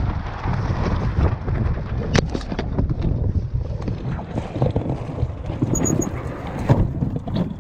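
Wind buffeting the microphone in a steady low rumble, with scattered short knocks and clatters through it, a sharper one about two seconds in and another near the end.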